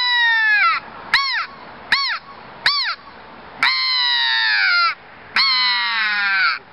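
Gooseman custom cocobolo crow call blown by mouth in mid-range crow caws, each falling in pitch: one caw, three short ones, then two long drawn-out ones.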